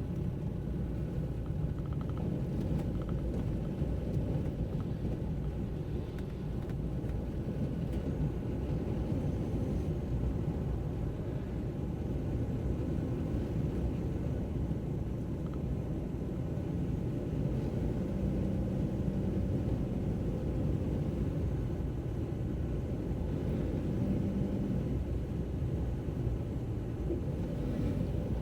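Steady low rumble of a car on the move, engine and road noise from the driven car, holding an even level throughout.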